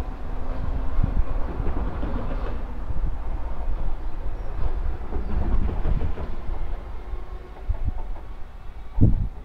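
Merseyrail Class 508 third-rail electric multiple unit pulling away, with a steady rumble and irregular knocking of its wheels on the track. A short low thump comes near the end.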